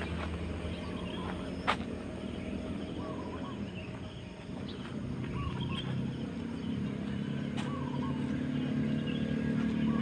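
Road traffic: a vehicle's engine hum that grows louder over the second half as it approaches, with birds chirping in short repeated calls and one sharp click about two seconds in.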